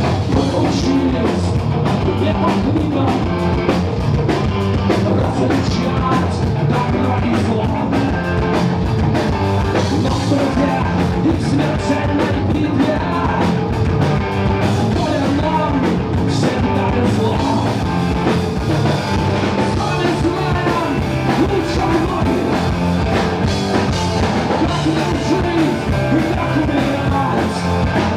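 A live rock band playing a driving, up-tempo song with drum kit, guitar and a singer.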